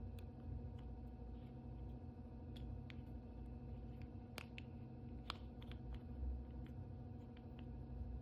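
Faint, scattered crinkles and clicks of plastic toy packaging being handled and opened, a dozen or so small ticks with the sharpest about four and five seconds in, over a steady low hum.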